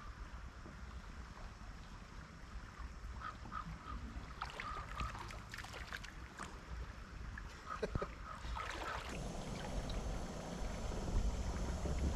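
A kayak on a flowing trout stream: a steady water and wind rumble with a few hull or paddle knocks, and three short runs of quick, evenly spaced pitched notes in the middle. The water noise swells near the end.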